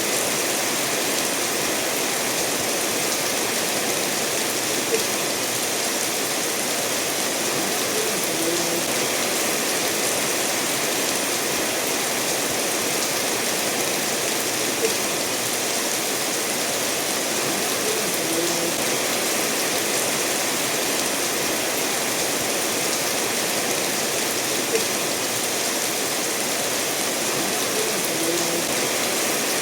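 Steady rain falling together with a stream running over stones, an even unbroken hiss, with a short tick standing out about every ten seconds.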